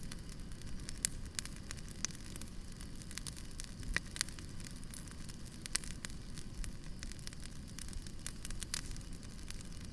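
Wood campfire burning: a steady low rush of flames with frequent irregular crackles and pops, and a few louder snaps.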